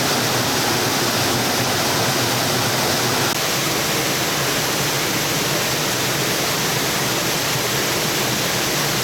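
Rushing water of a mountain valley stream: a loud, steady, unbroken hiss of flowing water.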